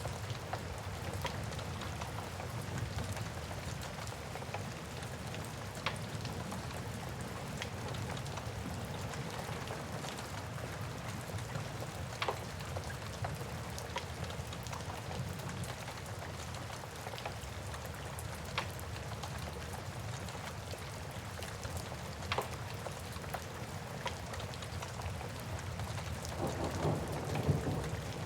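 Steady rain with a low background rumble, broken every few seconds by single sharp pops and crackles from a wood fire. A roll of thunder builds in near the end.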